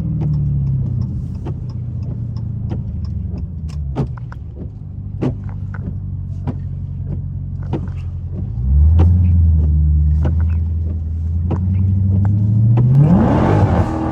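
Straight-piped supercharged 6.2-litre Hemi V8 of a Dodge Hellcat Redeye, heard from inside the car: the engine note falls as it coasts down, then about nine seconds in it gets suddenly louder and climbs steadily in pitch under hard acceleration. Sharp ticks and pops are scattered throughout.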